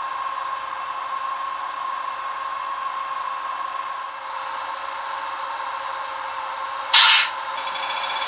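Digitools Digisound3.1 sound decoder in a model MÁV V63 electric locomotive playing the locomotive's running sounds through its small loudspeaker: a steady whirring with a humming tone, shifting slightly about four seconds in. About seven seconds in comes one short, loud hiss.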